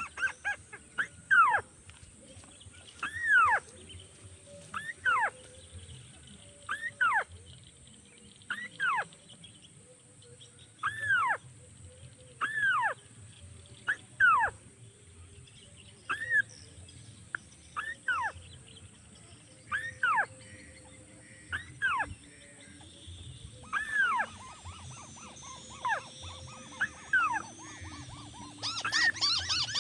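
Crake (tikusan) calls used in bird-luring: a sharp, arched note about every two seconds, often doubled. A steady high-pitched hum sounds behind the calls, and a fast run of repeated notes begins near the end.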